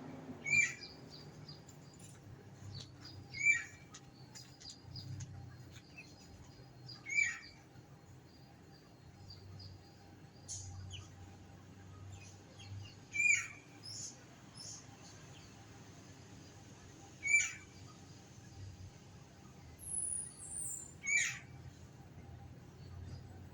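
Short, sharp, high chirping calls repeated about every three to four seconds, six loud ones in all, with fainter chirps in between.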